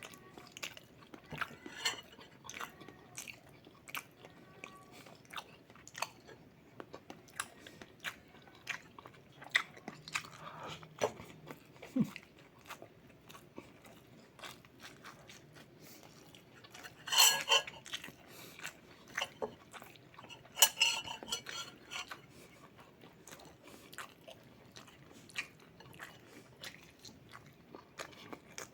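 Close-up eating sounds: chewing and crunching with many small mouth clicks and scattered clinks of cutlery or dishes, with two louder crunchy bites about 17 and 21 seconds in.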